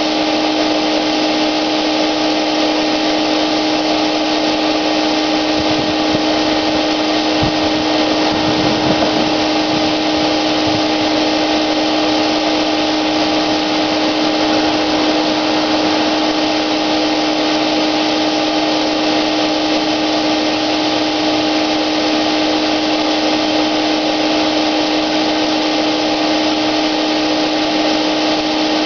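Wagner paint sprayer running steadily while paint is sprayed, a constant motor whine over a rushing of air that holds the same pitch throughout.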